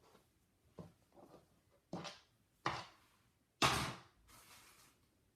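Several separate sharp knocks and clatters of tools and parts being handled and set down on a work surface, the loudest about three and a half seconds in.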